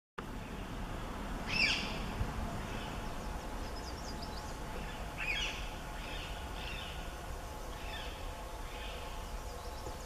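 Wild birds calling: a high call with quick falling notes about a second and a half in and another a little past five seconds, with scattered shorter chirps in between, over a steady low outdoor rumble.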